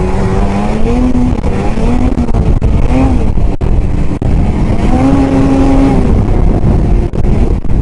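Arctic Cat ZR 8000's 800 C-TEC two-stroke twin engine running, its pitch rising and falling several times as the throttle is worked.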